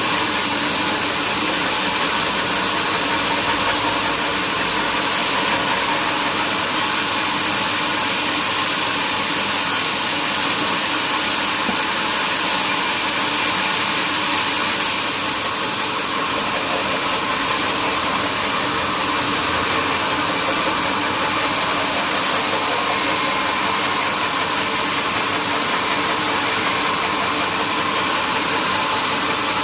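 Sawmill machinery running steadily: a constant mechanical drone with a faint steady whine, easing off slightly about halfway through.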